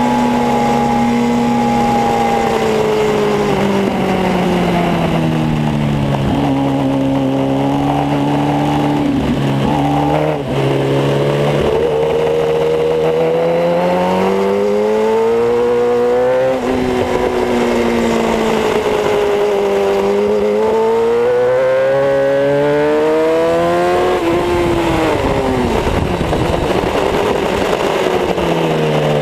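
Kawasaki ZX-10R's inline-four engine heard on board at speed, its pitch repeatedly climbing under acceleration and falling away into the corners. Short breaks in the sound about ten and sixteen and a half seconds in fit quick gear changes.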